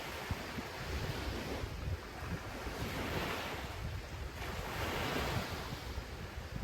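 Ocean surf breaking and washing up a beach, swelling up and falling back every couple of seconds, with wind buffeting the microphone.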